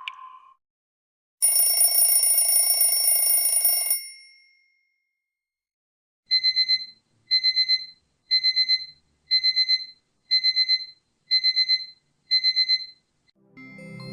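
Infinix XOS 14 phone alert tones played in turn: a short chime fading out, then a loud steady buzzing tone for about two and a half seconds, then seven quick bursts of rapid trilling beeps, about one burst a second, like a phone alarm or ring. A new melodic tone begins just before the end.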